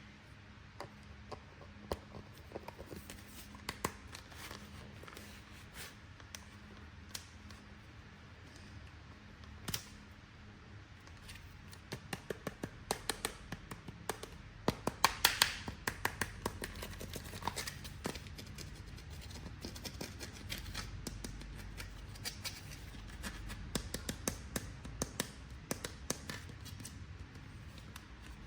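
Toy packaging being handled and opened by hand: irregular clicks, taps and crackles of plastic and cardboard, busiest and loudest around the middle.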